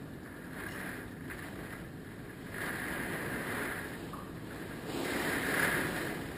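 Hurricane wind gusting, a steady roar that swells in surges, the strongest near the end.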